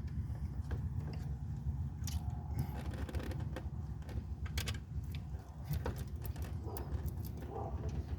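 Irregular metallic clicks and clinks of hand tools and fasteners being worked on an engine's alternator mounting, over a steady low rumble.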